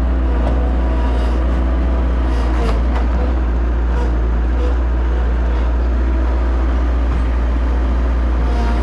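A vehicle engine running steadily at low revs, a constant deep rumble with an even hum.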